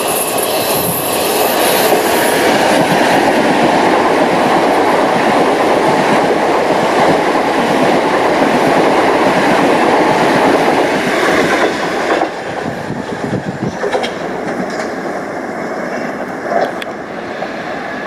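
Southeastern electric multiple unit passing close along the platform, its wheels clattering over the rail joints. The noise stays loud for about eleven seconds, then drops away as the train clears.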